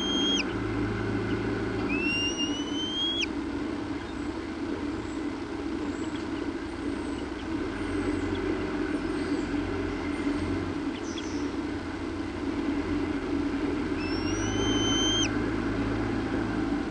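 A bird calling with long, rising whistles that drop away sharply at the end: one as the clip begins, one about two seconds in, and another near the end. A steady low rumble runs underneath throughout.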